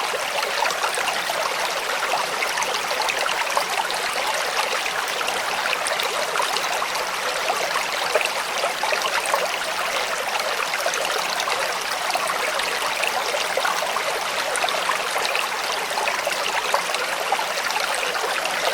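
A shallow creek flowing and trickling steadily over stones, a constant bubbling rush of water.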